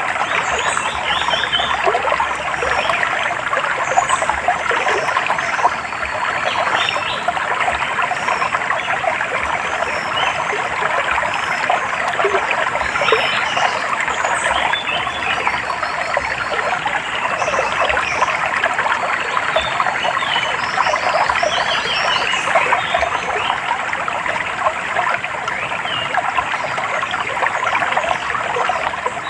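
A small stream trickling and babbling steadily over stones, with birds chirping briefly and repeatedly above it.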